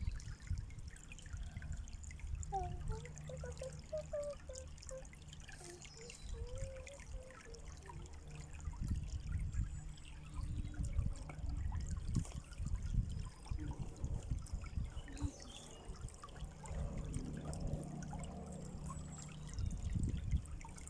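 Water trickling and flowing steadily in a small stream or runnel, with a few short faint pitched sounds a few seconds in.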